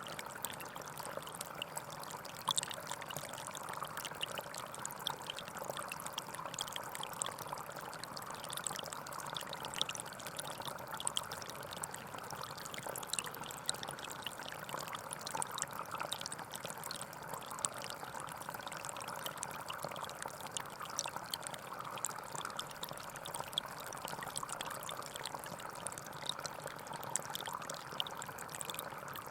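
Gentle forest stream flowing steadily, a constant trickling and splashing of running water.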